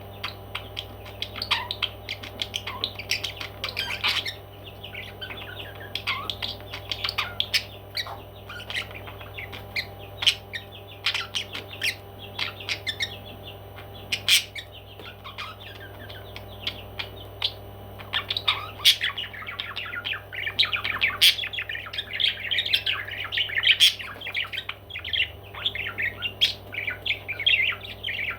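Pet parrots chirping with many short, sharp squawks, the calls thickest about two-thirds of the way through, over a steady low hum.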